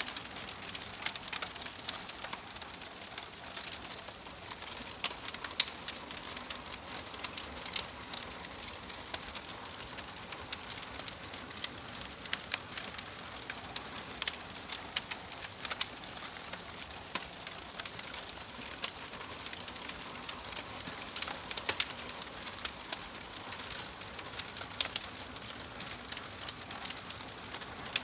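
Wood fire crackling in a fireplace: a steady hiss with frequent, irregular pops and snaps.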